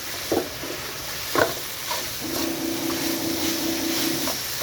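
Oil sizzling in a frying pan, with a few sharp knocks of a utensil against the pan in the first two seconds. A steady hum runs for about two seconds in the second half.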